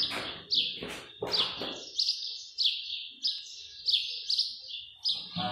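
A small bird chirping over and over, short high chirps about twice a second. Several dull knocks in the first two seconds, and a guitar chord strummed just before the end.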